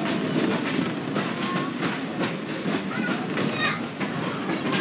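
Heritage railroad passenger train heard from its open-air car while rolling along the track: a steady rumble of the car, with the wheels clicking over the rail joints.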